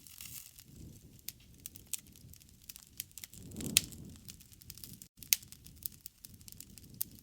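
Wood campfire crackling, with a steady scatter of sharp pops and snaps over a low rumble of flames. The flames swell briefly about halfway through, topped by the loudest pop, and another sharp pop follows a second and a half later.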